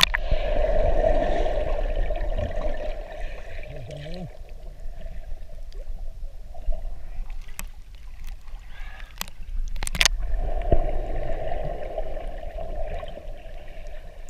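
A boat under way on open water: a steady rush of water along the hull with low wind noise, swelling twice. Sharp knocks come at the start and about ten seconds in.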